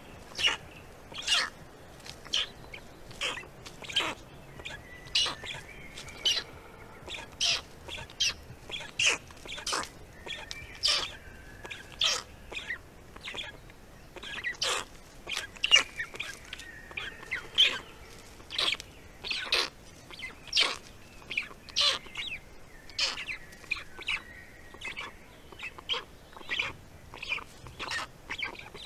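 Short, sharp bird calls repeating irregularly about one to two times a second, with fainter whistled bird notes behind them.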